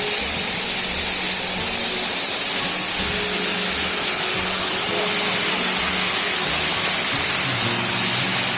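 Wide cascading mountain waterfall rushing: a loud, steady hiss of falling water.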